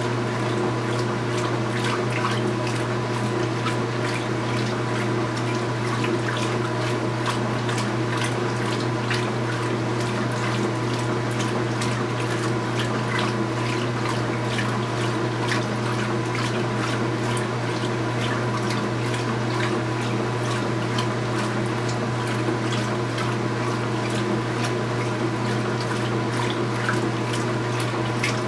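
2015 Speed Queen 8 Series top-load washing machine with water running into or through the tub, over a steady machine hum; no rhythm or change throughout.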